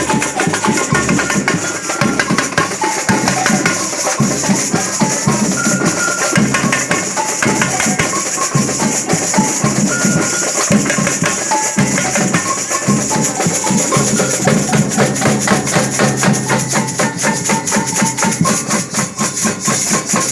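A band playing music with dense, driving percussion of drums and shakers under sustained melody notes; the playing breaks off abruptly at the very end.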